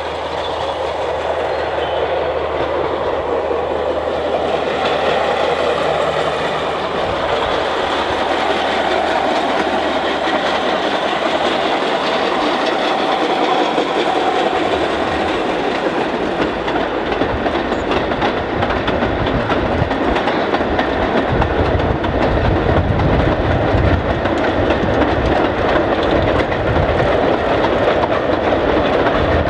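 Narrow-gauge train running along the track: a steady rumble and rattle, growing deeper and heavier about halfway through.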